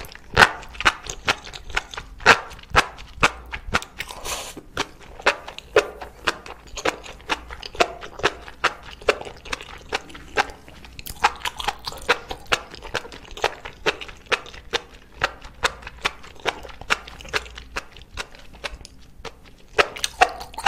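Close-miked chewing of enoki mushrooms in a thick spicy sauce, a steady run of wet mouth clicks about two to three a second, with a louder bite-and-slurp right at the start.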